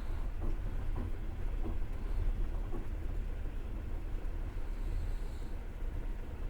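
Passenger train running on the rails, heard from inside the carriage: a steady low rumble of the wheels with faint, irregular knocks.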